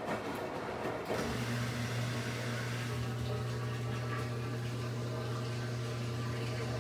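Washing machine running with water noise; about a second in, a steady low electric hum switches on and holds.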